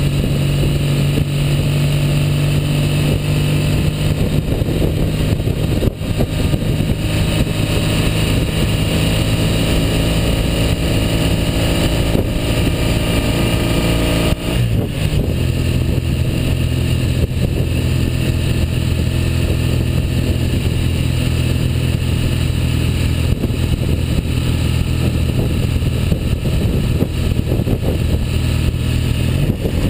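1959 Norton Dominator 600's air-cooled parallel-twin engine running steadily, freshly overhauled. About halfway through, its note drops to a lower steady pitch.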